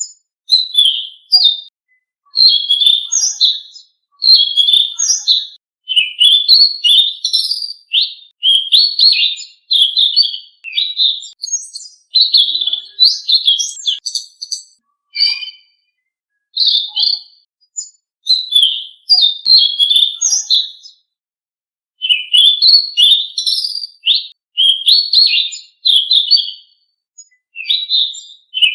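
Selendang Biru songbird singing in quick, loud phrases of high chirps and whistles, each phrase about one to two seconds long with short pauses between them, and a longer pause a little past two thirds of the way through.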